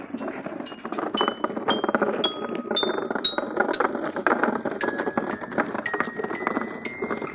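Small gravel pebbles clattering steadily as they are loaded into a wooden toy truck. A chiming melody of high notes, about two a second and stepping upward, plays over it.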